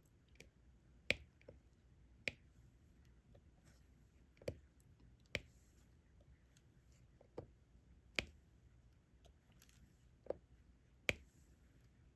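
Diamond painting pen tapping drills down onto the sticky canvas: a series of sharp, short clicks, about eight, spaced irregularly one to two seconds apart.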